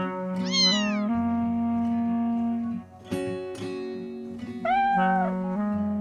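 Gentle background music of plucked, guitar-like notes, with a cat meowing twice over it: one meow about half a second in and another near the end, each rising and then falling in pitch.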